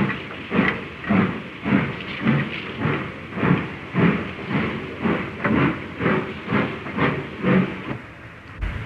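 Steam locomotive exhaust beats, a regular chuffing of about two beats a second that quickens slightly, as the engine works a train away.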